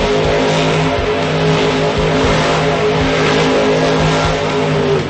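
Monster truck engine running hard at high, fairly steady revs, loud, with brief dips in pitch about one and two seconds in; it cuts off at the very end.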